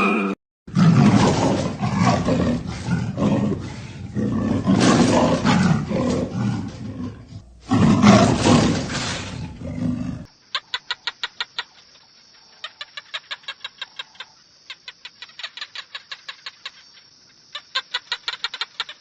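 Animal sounds in two clips. First comes a loud, rough, noisy call in repeated pulses for about ten seconds. Then it cuts suddenly to trains of rapid, high-pitched clicks over a thin steady high tone.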